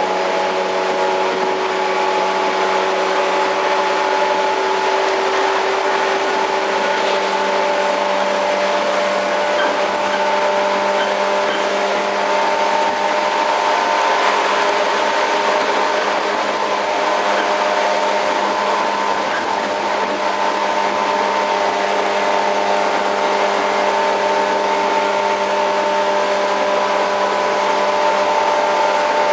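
Running sound inside a JR 115 series electric multiple unit motor car (MoHa 114): a steady whine from the traction motors and gears over the rumble of the wheels on the rails at cruising speed. The whine's pitch rises slightly about a third of the way in.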